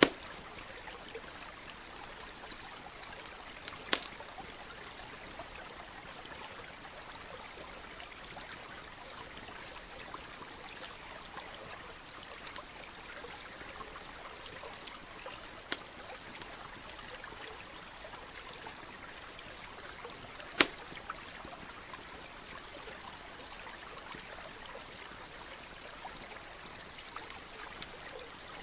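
Campfire crackling with scattered sharp pops, the loudest about two-thirds of the way through, over the steady trickle of a stream.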